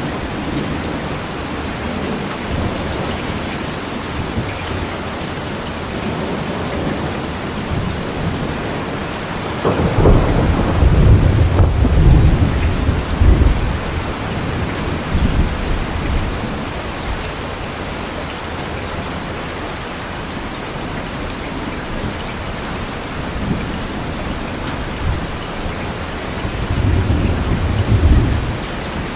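Steady heavy rain with rolling thunder: a loud low rumble breaks in suddenly about a third of the way through and rolls on for several seconds, and a smaller rumble comes near the end.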